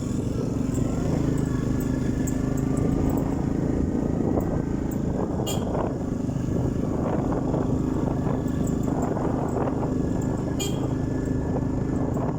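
Orion motorcycle engine running steadily, with two brief high-pitched sounds about five seconds apart.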